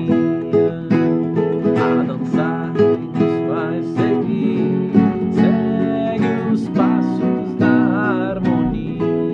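Acoustic guitar strummed in a steady rhythm, with a voice singing wordlessly along at times.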